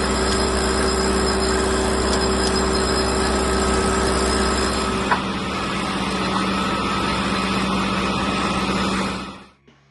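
Wood-processing machinery running steadily, a loud mechanical din with a steady hum. A sharp click comes about five seconds in, where one of the hum tones stops, and the sound cuts off abruptly near the end.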